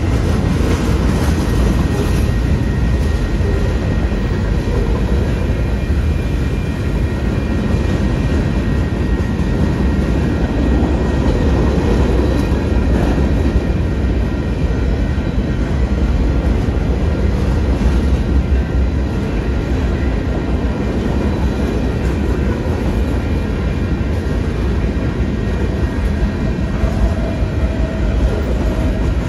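A train rolling past: a loud, steady rumble of wheels on the rails.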